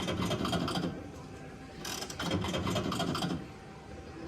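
Slot machine terminal's reel-spin sound effects: rapid clicking ticks in two bursts, one near the start and one from about two seconds in, as the reels spin and stop.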